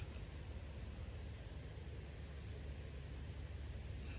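Steady high-pitched chorus of insects, with a low steady rumble underneath.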